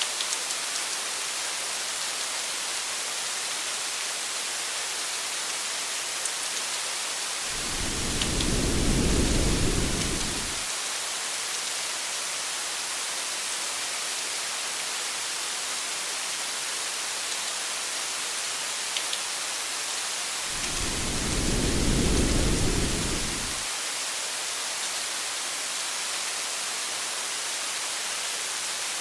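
Steady hiss of heavy rain, with two low rolls of distant thunder, each swelling and fading over about three seconds, the first about eight seconds in and the second about thirteen seconds later.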